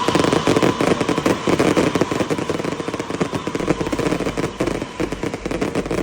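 Fireworks crackling: a dense, rapid run of sharp pops going off many times a second.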